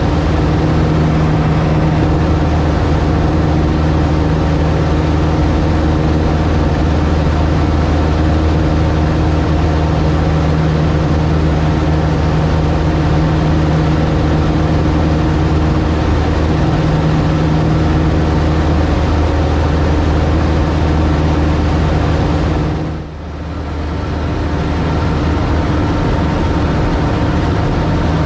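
Cub light aircraft's piston engine and propeller droning steadily in flight. The sound drops away sharply about 23 seconds in and builds back up over a couple of seconds.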